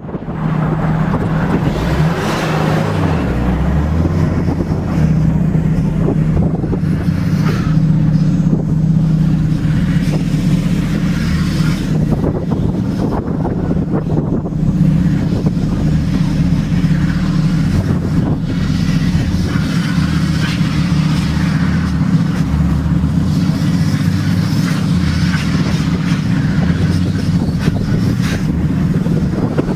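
A Scion tC idling loudly close by, a steady low drone throughout. Under it, a Volvo 940 Turbo's turbocharged four-cylinder revs up and down as the car does donuts in the snow.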